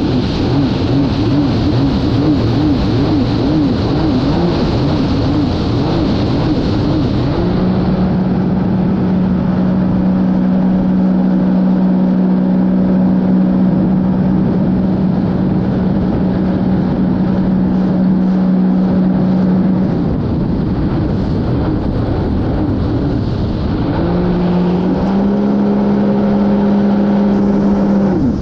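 Sea-Doo GTR 230 personal watercraft's supercharged Rotax three-cylinder engine running under way over a rushing hiss. For the first several seconds the revs rise and fall; then it holds a steady high pitch for about twelve seconds, eases off, and climbs again in two steps near the end.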